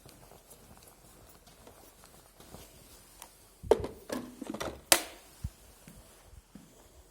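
A short run of sharp knocks and clicks about four seconds in, the loudest two about a second apart, against low room tone.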